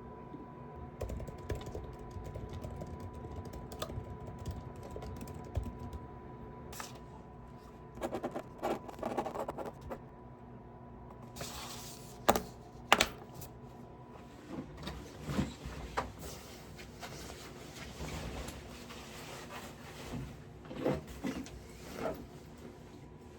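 Typing on a computer keyboard: irregular runs of key clicks, with two louder sharp knocks about halfway through. A faint steady hum runs underneath for the first third, then stops.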